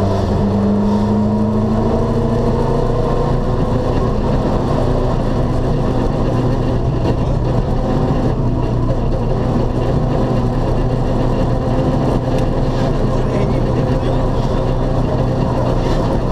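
Rally car engine running steadily at moderate speed, heard from inside the cabin; the revs rise a little at the start and then hold level.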